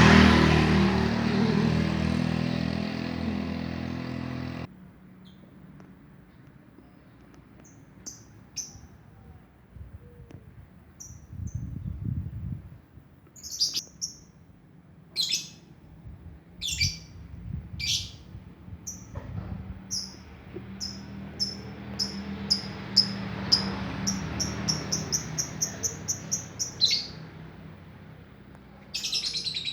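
A small songbird chirping in short high notes, scattered at first and then quickening into a rapid run of about five chirps a second near the end. Before the chirping, a loud steady drone cuts off sharply about four and a half seconds in.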